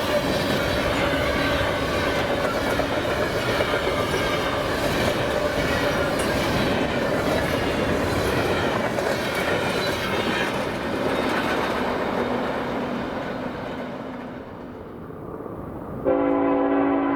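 Freight train rolling past with steady wheel-and-rail noise and clatter, fading as it moves away. Near the end a locomotive air horn cuts in suddenly, sounding a loud, steady multi-note chord.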